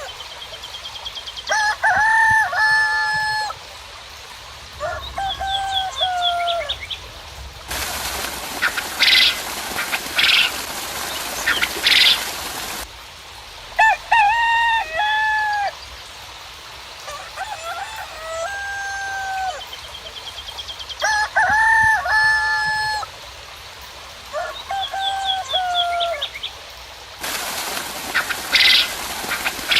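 Roosters crowing again and again, with small birds chirping high above them. Twice, for about five seconds each, a steady hiss of rain comes in with sharper bird chirps over it.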